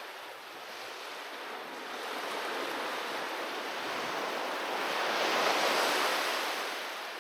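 Sea waves breaking and washing on a beach, one wave swelling to its loudest about five to six seconds in, then receding.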